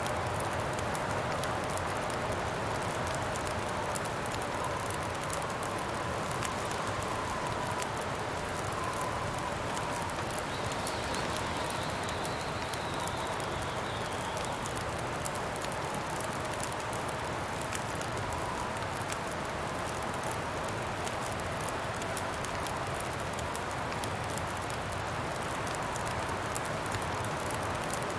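Steady wind blowing with a campfire crackling, a constant scatter of small pops and snaps. A faint whistling tone in the wind comes and goes.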